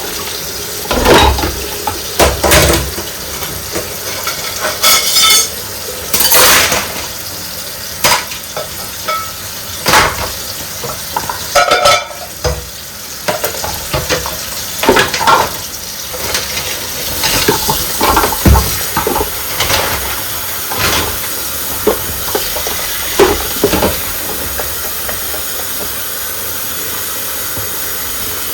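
Dishes being washed by hand: crockery and cutlery clink and knock at irregular intervals over a steady hiss of running tap water. The clatter thins out in the last third, leaving mostly the water.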